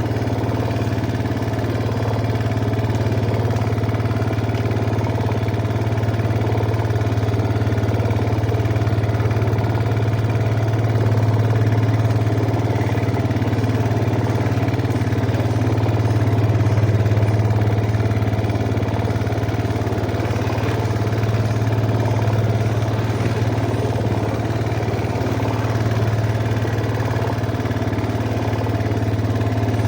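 Yamaha Jupiter MX's single-cylinder four-stroke engine running steadily, its level swelling and easing slightly now and then.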